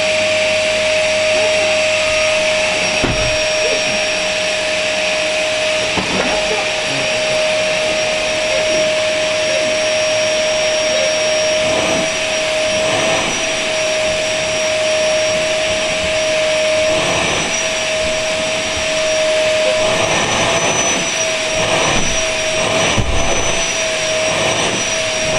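Vacuum cleaner running steadily with a high motor whine over a rushing hiss; the whine wavers in pitch a few times in the second half, and a few soft knocks sound along the way.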